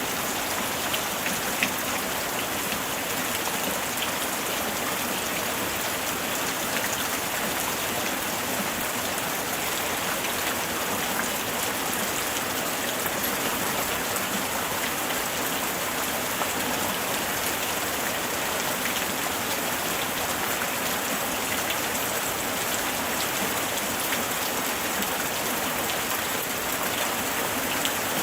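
Steady light rain falling, an even hiss of rain with many small drops pattering on surfaces.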